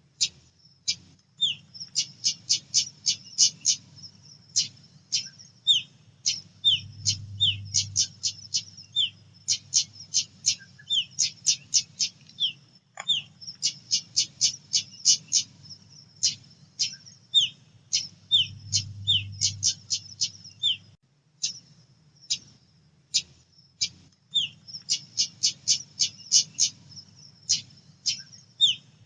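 Female pied bushchat (decu) calling: fast runs of short, sharp, high chips in clusters with brief pauses, mixed with short downward-slurred notes, over a faint low hum.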